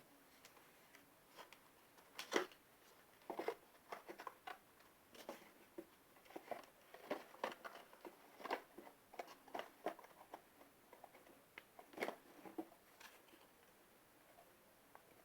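Irregular taps, clicks and rustles of hands handling a cardboard milk-carton boat, quieter near the end.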